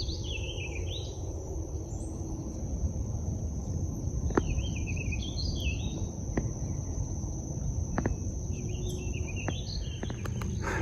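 A songbird sings three short warbling phrases, over a steady high-pitched drone of insects and a low rumble of wind. There are a few faint clicks.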